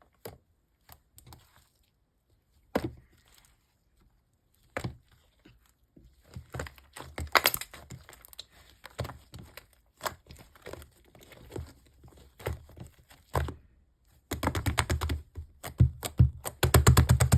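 Marbling slime being handled by hand, making sharp clicks and pops. These are scattered at first and grow into denser crackling from about six seconds in. Two quick flurries of rapid popping come near the end.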